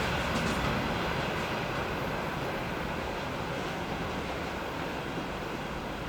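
Freight train rolling away over the rails, its steady rumble slowly fading as it recedes.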